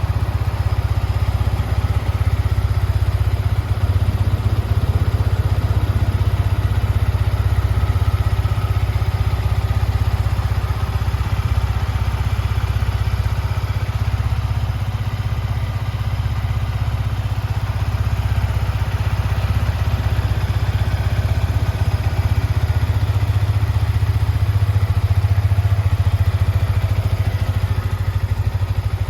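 Yamaha MT-125's single-cylinder four-stroke engine idling steadily.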